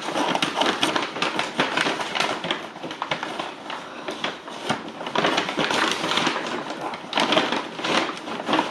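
Fast-food packaging crinkling and rustling as it is handled and opened, a dense run of crackles and crunches.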